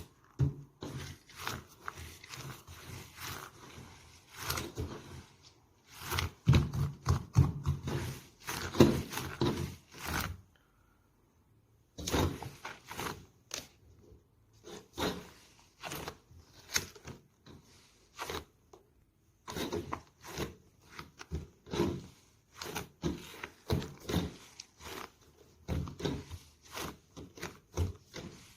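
Slime being squeezed, pressed and stretched by hand: irregular sticky clicks, crackles and squelches, stopping for about a second and a half in the middle before resuming.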